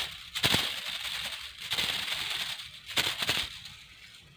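Dry rustling and rattling with a few sharp clicks, from a bamboo rat snare being handled.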